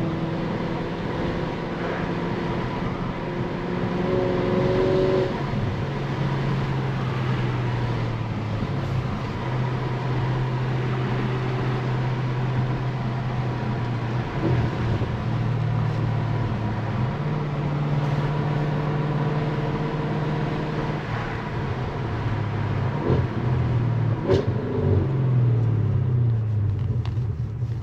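Tuned Audi S6 engine heard from inside the car while driving, its note holding steady and stepping up and down several times, over road noise.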